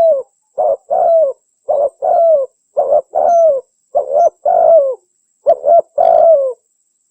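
Spotted dove (Spilopelia chinensis) cooing over and over, each phrase a short note followed by a longer one that falls in pitch at its end, about one phrase a second. The cooing stops near the end.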